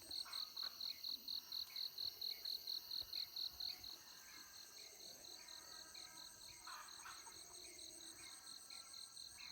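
Crickets chirping at dawn: one nearby cricket gives a regular high-pitched chirp about four to five times a second, which drops back about four seconds in, over a fainter steady chorus of other insects.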